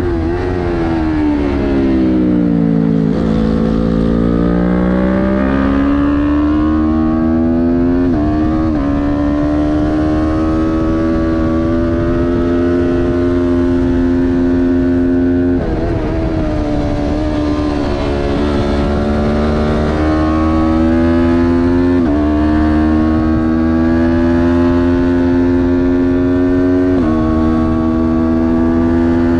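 Kawasaki Ninja 400 parallel-twin engine running hard on a racing lap: the pitch falls over the first three seconds as the bike slows, then climbs steadily under full throttle, with four upshifts, each a sudden drop in pitch.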